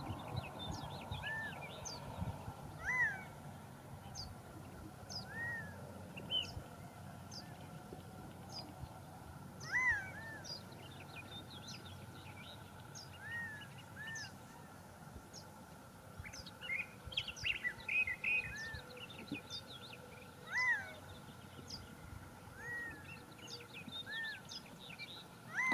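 Birds calling: short arched whistled notes repeated every second or two, with high chips between them and a busier flurry of chirps about two-thirds of the way through.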